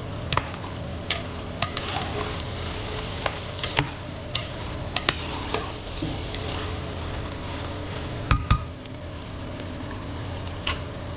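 Kitchen utensils and dishes clicking and knocking: a string of sharp taps at irregular intervals, with a louder double knock about eight seconds in, over a steady background hum.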